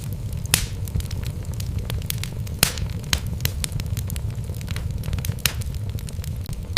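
Wood logs burning in a fireplace: a steady low rumble of flame with irregular crackles and sharp pops, a few louder snaps standing out.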